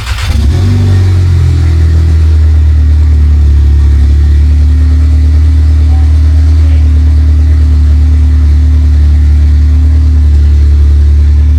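Volkswagen MK7 Golf GTI's 2.0-litre turbocharged four-cylinder starting with a 4.5-inch downpipe fitted and the exhaust not fully connected. It catches with a brief rev flare, then settles into a loud, steady, deep idle.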